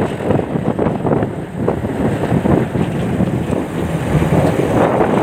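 Car engine running on the move, with wind buffeting the microphone in uneven gusts.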